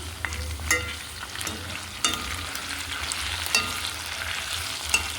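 Curry chicken back sizzling in an uncovered pot as it is stirred. A utensil knocks against the pot about four times, each knock ringing briefly.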